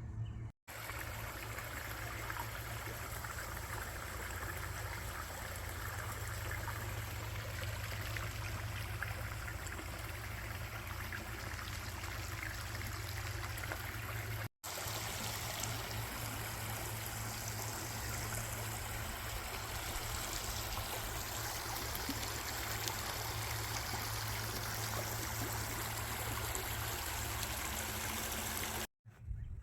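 Steady rushing of a stream's running water, with three brief silent breaks: just after the start, near the middle and near the end.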